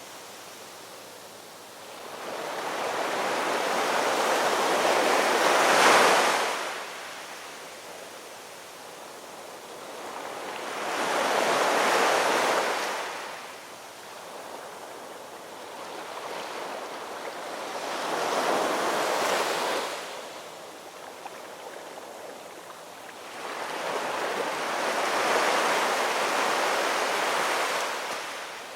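Ocean surf, waves breaking and washing in: four swells rise and fall, about one every six seconds.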